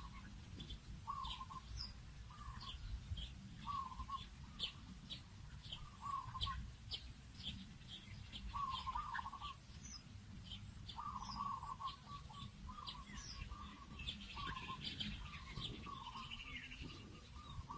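Birds calling: a short call repeated about once a second, with many quick high chirps over it and a low rumble underneath.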